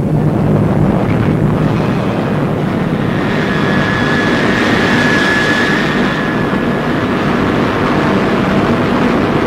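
Atlas rocket lifting off, its engines giving a loud, steady roar, with a faint high whine over it from about three to seven seconds in.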